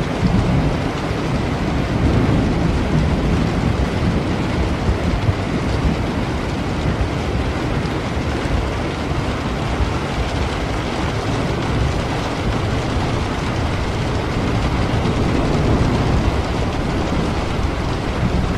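Steady heavy rain with a low rumble of thunder that swells near the start and again near the end.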